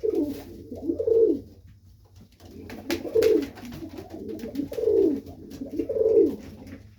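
Serbian Highflyer pigeons cooing in the loft: repeated low coos with a falling pitch, pausing briefly about two seconds in, with a few light clicks.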